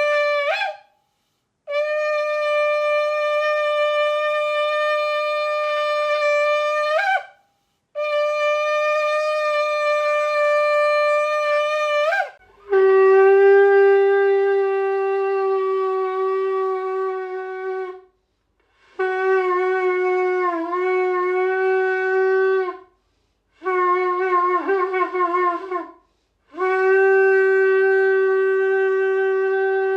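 Shofar blown in long steady blasts separated by short breaths, the first three each ending with a quick upward flip in pitch. About halfway through, a lower-pitched shofar takes over with four blasts, the third broken into rapid wavering notes.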